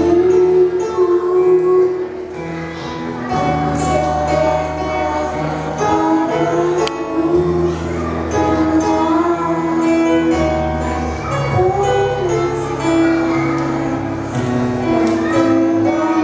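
Children's choir singing a hymn of praise with instrumental accompaniment: sustained melody notes over steady bass notes.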